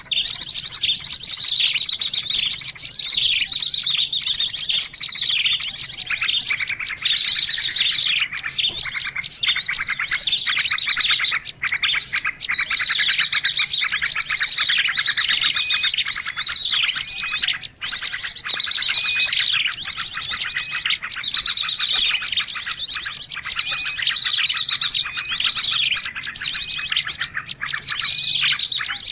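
Dense chorus of many small songbirds chirping and trilling over one another without pause. It is a busy tangle of quick sweeping notes and buzzy trills.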